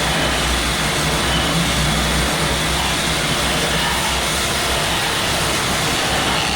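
Machinery running steadily: a loud, even noise with a low hum underneath.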